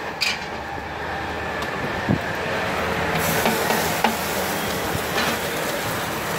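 Oil sizzling on a large flat street-food griddle (tawa) as shredded egg fries on it, the sizzle growing brighter about three seconds in. A few sharp metal clicks of a spatula and steel plates.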